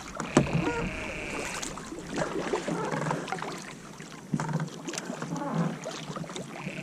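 Kayak paddle strokes dipping and splashing in the water, with faint voices and a high steady tone lasting about a second and a half near the start.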